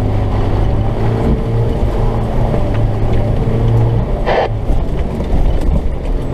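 Off-road truck's diesel engine running under way, a steady low hum, with a brief sharper sound about four seconds in.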